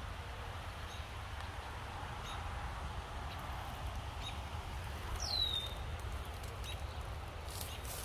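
Outdoor field ambience with a steady low rumble and faint ticks. About five seconds in, a bird gives a single short call that slides down in pitch. Near the end, footsteps start rustling through grass and brush.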